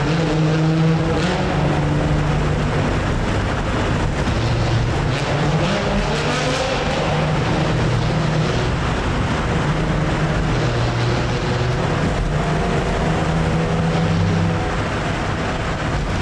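Classic Nissan cars' engines running under way, their intake and exhaust drone stepping up and down in pitch as they accelerate and ease off, with a rising rev about a third of the way in. The sound echoes inside a road tunnel.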